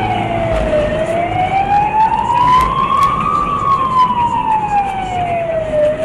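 Police car siren on a slow wail: the pitch falls for about a second, rises for about two and a half seconds, falls again, and starts to rise near the end, over a low rumble.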